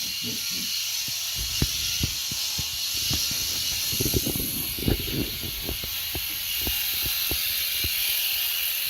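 Electric shears running steadily while shearing a goat, a high hissing buzz, with scattered short knocks and clicks.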